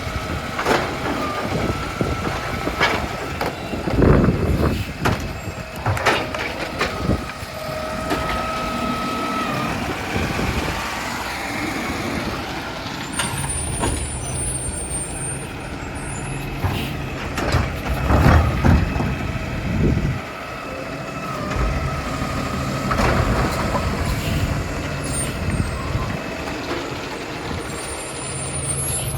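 New Way Sidewinder automated side-loader recycling truck working: a steady diesel engine rumble, with a whine that comes and goes several times and a number of short, sharp hisses or knocks.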